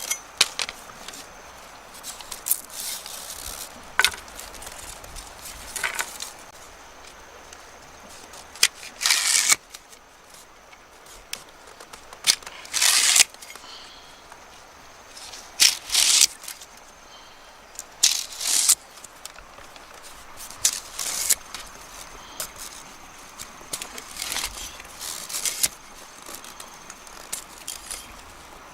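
Irregular rustling, scraping and crackling handling noises in short bursts every second or two, some lasting about half a second, with sharper clicks between them.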